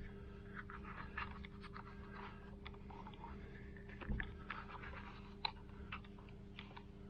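Small crackling clicks and rustles of Vespa stator wires being poked by hand through a rubber boot, with a heavier knock about four seconds in and a sharp click about a second later, over a steady low hum.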